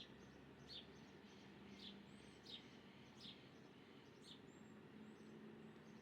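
Small birds chirping faintly: five short chirps about a second apart, with a few thin, high whistles between them, over a low steady background hum.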